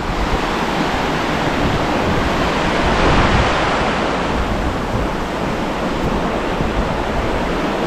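Steady rushing of a fast-flowing river, swelling slightly midway, with wind buffeting the microphone.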